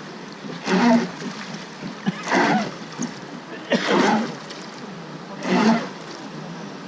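Wooden river boat being rowed, a surge of oar stroke and water about every one and a half seconds.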